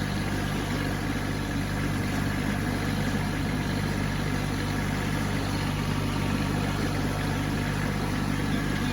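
Kubota B2601 compact tractor's three-cylinder diesel engine running at a steady speed.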